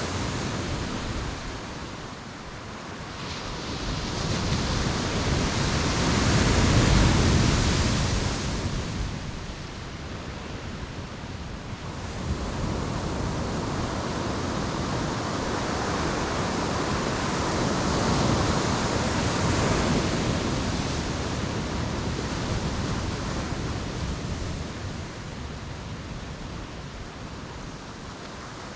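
Ocean waves breaking on a beach and washing back. The surf swells and eases in slow surges, loudest about seven seconds in and again around eighteen to twenty seconds in.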